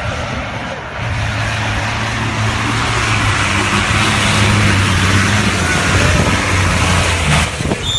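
A rally vehicle's engine running at a steady pitch under a rushing noise that grows louder through the middle, then dips briefly near the end.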